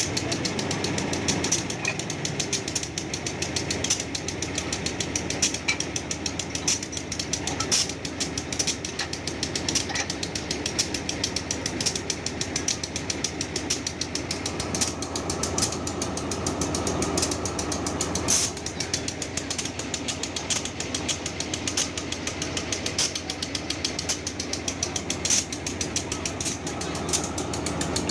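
Train running on the rails with a continuous fast, even rattling and clacking, with louder knocks every few seconds.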